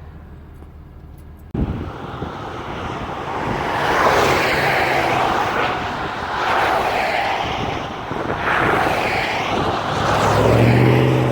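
Vehicle driving, with road and wind noise and the engine running. It starts abruptly about a second and a half in, and the engine note grows stronger near the end.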